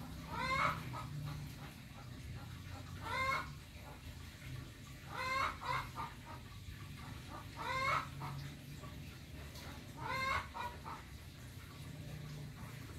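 A bird calling five times, about every two to three seconds, each call a wavering note followed by a few quick shorter ones, over a low steady hum.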